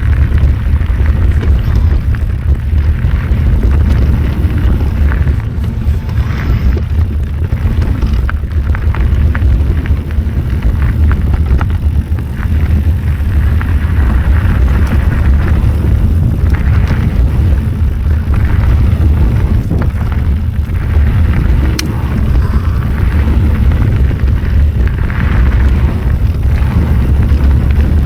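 Mountain bike ridden along a dirt trail: heavy wind rumble on the camera's microphone, with the bike rattling and the tyres crackling over the ground.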